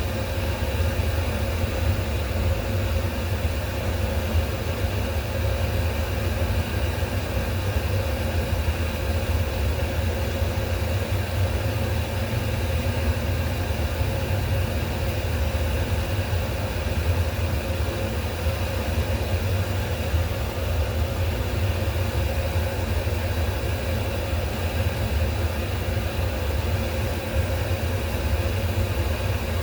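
A steady, unchanging low mechanical hum, like a motor or fan running continuously.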